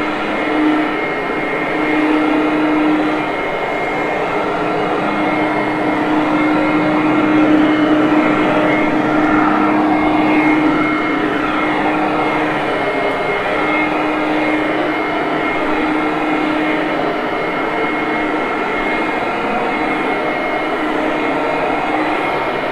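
Hoover Conquest upright vacuum running steadily with its brush roll on carpet: a continuous motor noise with a steady low hum and a higher whine over it, swelling a little midway.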